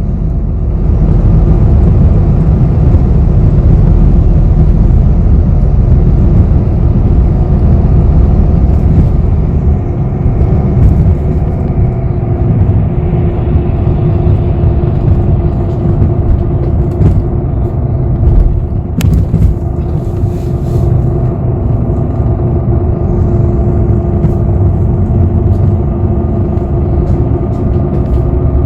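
Cabin noise inside a moving bus: a steady, loud low rumble of engine and road. A steady engine hum comes in about a third of the way through, and there is a single sharp click about two-thirds in.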